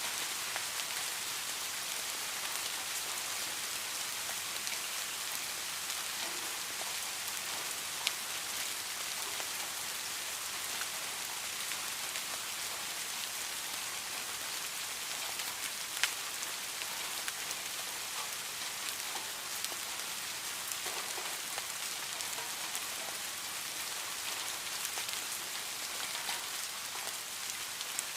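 Heavy rain falling steadily, an even hiss with many small drop ticks, and two sharper drop hits, about a third and a little over halfway through.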